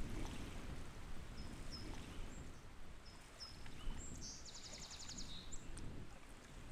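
Outdoor wetland ambience: a steady low rumble, with a few faint high bird chirps and, about halfway through, a short rapid trill from a small bird lasting under a second.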